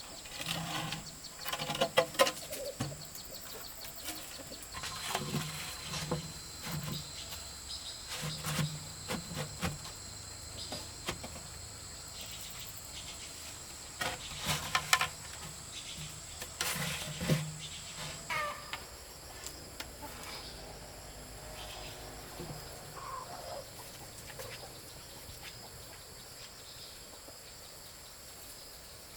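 Insects shrilling steadily with a high, continuous tone, with clusters of sharp knocks and clatter during the first two-thirds that then die away.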